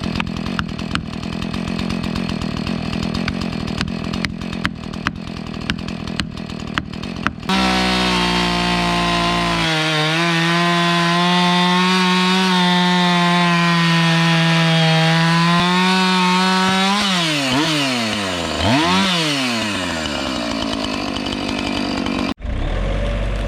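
Chainsaw work: at first a saw running low under a series of sharp knocks, then a two-stroke chainsaw held at high revs while cutting, dropping and picking back up twice near the end.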